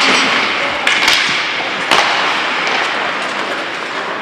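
Ice hockey play on the rink: skate blades scraping across the ice in a steady hiss, with three sharp knocks of sticks and puck about one and two seconds in.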